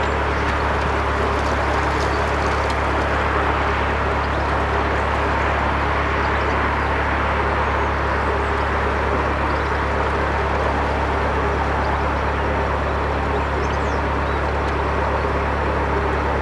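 Narrowboat's diesel engine running steadily at raised throttle, driving the boat through a shallow stretch of canal.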